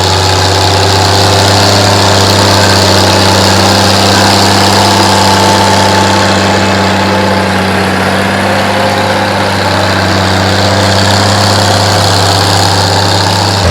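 Tractor engine running at a steady speed while plowing, an even low drone that keeps one pitch throughout.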